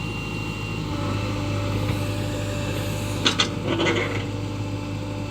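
Heavy diesel engine running steadily at a low, even pitch, with two sharp knocks a little over three seconds in.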